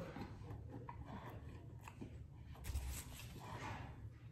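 Faint chewing of a mouthful of breaded fried chicken sandwich, with soft, irregular mouth clicks and a slightly louder moment a little past halfway.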